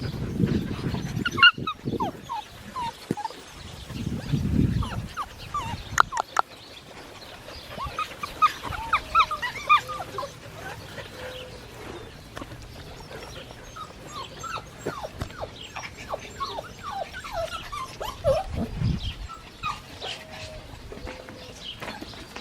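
Seven-week-old Australian Shepherd puppies yipping and whimpering in many short, high-pitched squeaks, thickest in the middle stretch, with a few low rumbling noises now and then.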